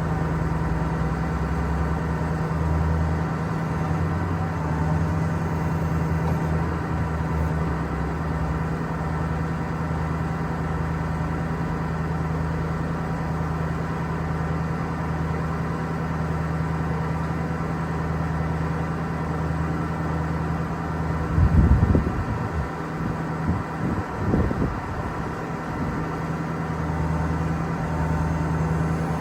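Ford F550's 6.4-litre Power Stroke V8 turbo diesel idling steadily with the PTO engaged, which drives the boom's hydraulic pump. A few short, low thuds come about three-quarters of the way through.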